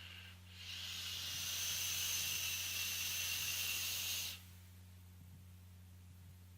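Hiss of vaping on an e-cigarette with a dripping atomizer: a steady airy hiss of about four seconds that stops abruptly, with a faint low electrical hum underneath.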